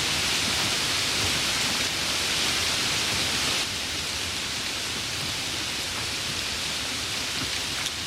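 Steady heavy rain falling, a dense even hiss that drops a little in level about halfway through.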